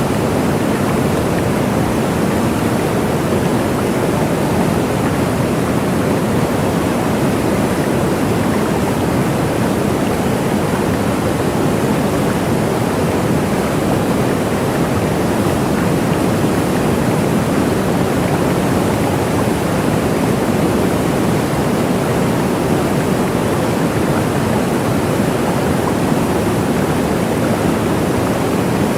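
Waterfall: a steady, unbroken rush of falling water, fuller in the low tones than the high.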